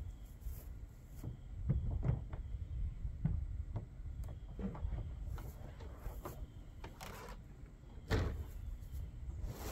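Hard plastic panels of a resin deck box knocking and clicking as they are handled and fitted together during assembly, with a louder knock about eight seconds in.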